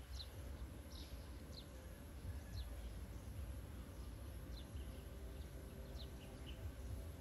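Outdoor ambience with small birds chirping: short, high, falling notes about once a second over a faint low rumble.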